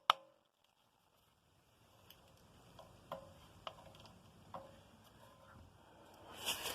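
A sharp click at the start, then a short stretch of silence, then a few faint, irregularly spaced ticks and taps.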